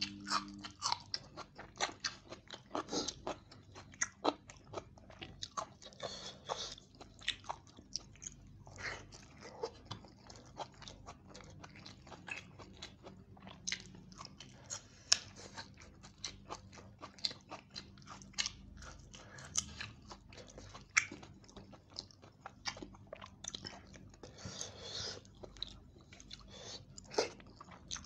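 A person chewing and biting mouthfuls of chicken roast, rice and salad eaten by hand, with many sharp wet mouth clicks and smacks and some crunching.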